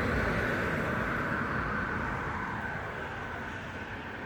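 Rushing traffic noise from a road vehicle passing, gradually fading away, over a steady high-pitched hum.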